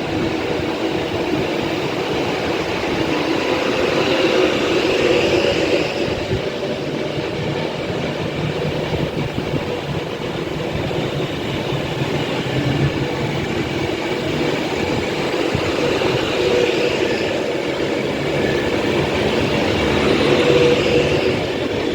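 Avanti West Coast passenger train running along the line through the station: a steady rumble of wheels on rails that swells about five seconds in and again near the end.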